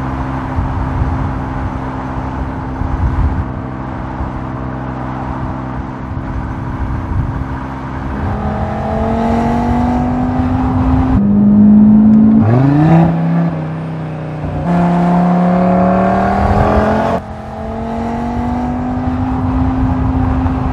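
Audi RS Q3 Sportback's 2.5 TFSI five-cylinder engine running steadily, then accelerating hard from about eight seconds in, its pitch climbing and dropping back at several gear changes.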